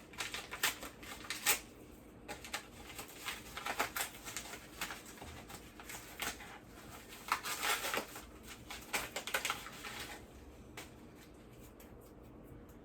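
Handling noise of a small item and its packaging being turned over and opened: a run of quick clicks and crinkles that dies down near the end.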